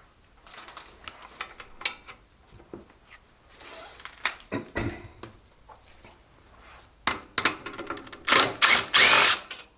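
Metal hand tools clinking and clattering: sockets and a wrench picked up and fitted to bolts on a small engine, scattered sharp clicks with a louder run of rattling near the end.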